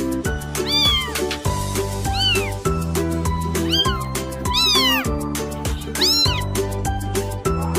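A cat meowing about four times, each call rising then falling in pitch, over background music with a steady beat.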